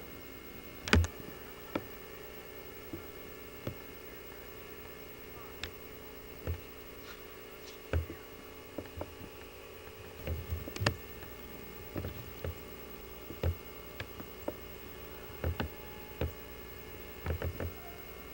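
Scattered short knocks and clicks, irregular and unevenly loud, over a steady hum made of several fixed tones.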